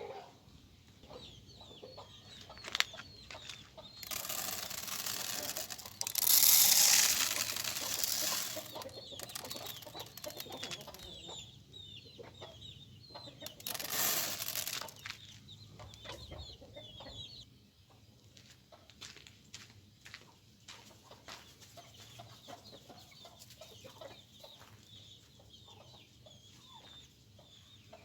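Birds calling in many short repeated notes, broken by two loud bursts of rustling noise, a long one about four seconds in and a shorter one in the middle.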